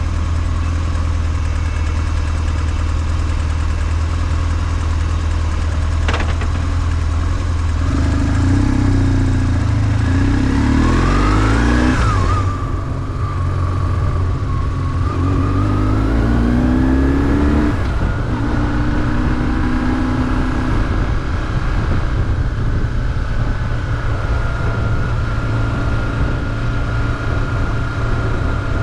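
BMW R1150GS motorcycle's air-cooled boxer twin running at low revs, then accelerating twice with the revs rising around the middle, before settling into a steady cruise.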